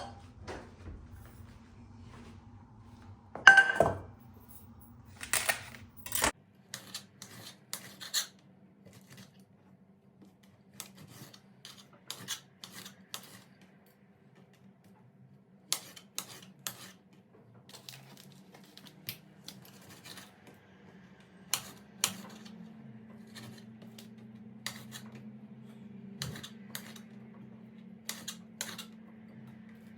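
Scattered clicks, clinks and knocks of household objects being handled, the loudest a sharp clatter about 3.5 seconds in, over a faint low steady hum.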